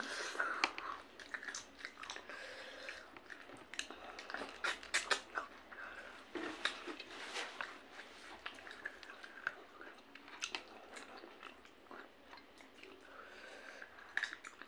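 Chewing and mouth smacking from eating rice and chicken by hand, with many irregular wet clicks.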